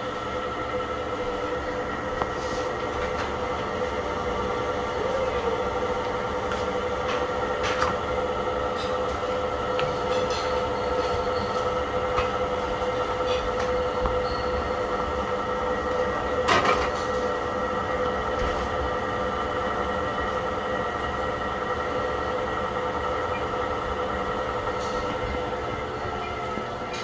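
A steady mechanical hum with held tones, with a few sharp clicks, the loudest about eight seconds in and around sixteen seconds in.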